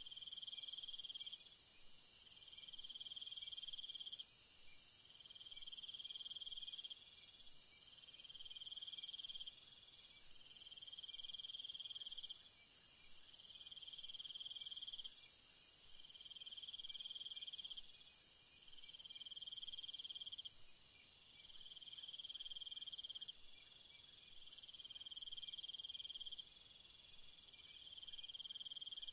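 Night insect chorus: a steady high-pitched hiss of insects over a thinner steady trill, with a lower trill pulsing on and off about every three seconds. The highest hiss eases down about two-thirds of the way through.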